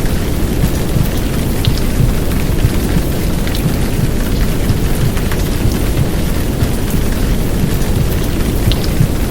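Heavy downpour rain: a steady, dense rush with a deep low rumble, and now and then a single drop ticking sharply above it.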